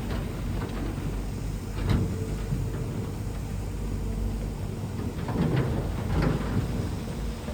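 Shantui bulldozer's diesel engine running steadily under work, with a few knocks about two seconds in and again between five and six and a half seconds in.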